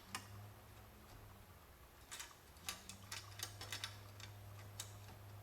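Faint, irregular clicks and ticks of a small metal window trim clip and tools being handled and worked, over a steady low hum.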